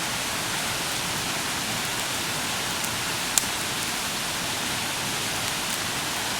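Small campfire of tinder and finger-thick fuel wood burning with a steady, even hiss, and one sharp crack of a stick popping about halfway through.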